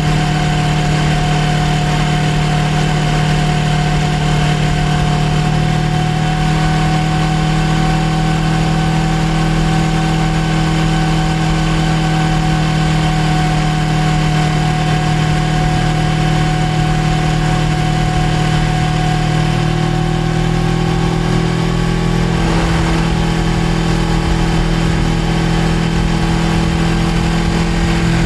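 Suzuki GSX250R's parallel-twin engine running at a steady speed, its pitch holding for most of the stretch, with a small shift in pitch about 22 seconds in.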